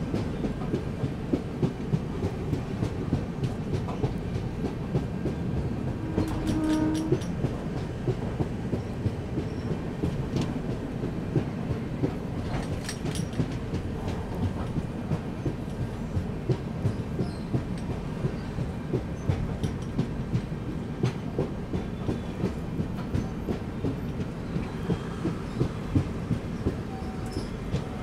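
Passenger train running: a steady rumble with the clickety-clack of wheels over the rails. A brief steady tone sounds about six and a half seconds in.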